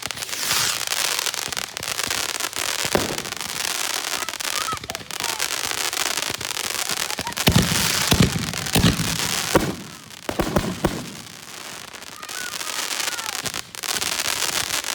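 Consumer fireworks going off in quick succession: steady crackling throughout, with a cluster of loud bangs about halfway through and a few more a couple of seconds later.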